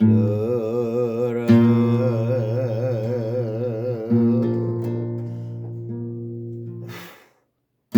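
Acoustic guitar chords strummed under a man's long held sung note with wide vibrato; the voice stops about four seconds in and a last chord rings out and fades, ending about seven seconds in.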